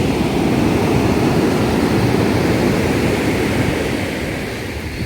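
Steady rushing of sea surf at Puri beach, with wind buffeting the microphone.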